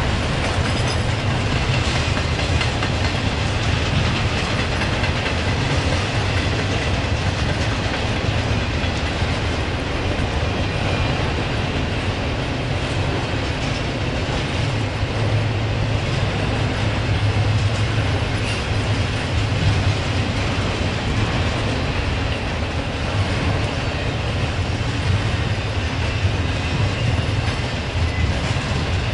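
Freight train cars rolling past on the rails, a steady rumble that holds at the same level throughout.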